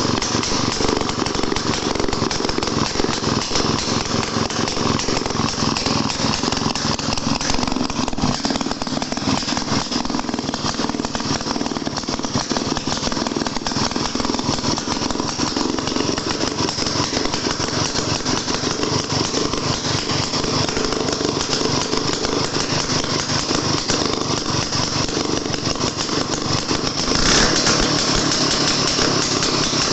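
Daihatsu Midget DKA single-cylinder two-stroke engine running steadily with a rapid pulsing, getting briefly louder about 27 seconds in.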